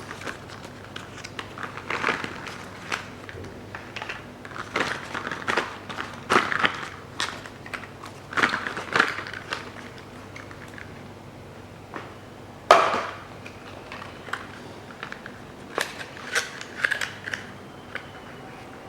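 Packaging crinkling, with small clicks and knocks, as new iridium spark plugs are unpacked and handled. The rustles come in irregular short bursts, the loudest a little past the middle.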